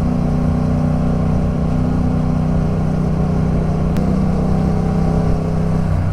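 Yamaha MT-07's parallel-twin engine running at a steady pace while riding, its pitch holding level.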